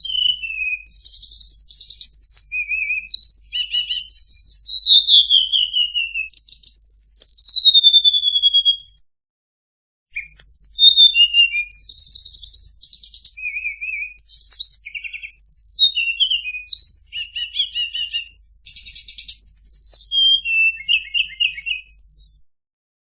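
Song of a tledekan bird played as a masteran training track: a fast, varied run of high whistles, downward-sliding notes and buzzy trills, breaking off for about a second near the middle.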